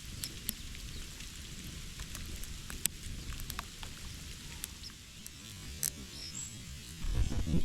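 Small birds in the snow: scattered light ticks and taps with a couple of brief high chirps, over a steady low rumble. A louder low rumble starts near the end.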